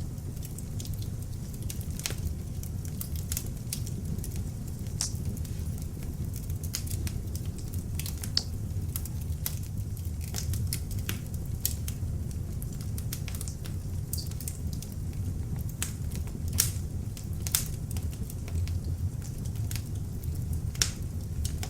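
Beech-wood log fire burning in an open fireplace: a steady low rumble of flames with irregular sharp crackles and pops from the wood throughout.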